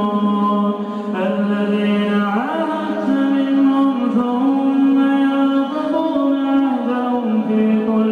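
A man's voice chanting Quranic recitation in long, held melodic lines, sliding up and down in pitch between sustained notes without a break.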